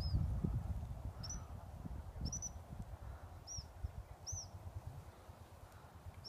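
Small bird giving short high chirps, about one a second, some in quick pairs, over low rustling.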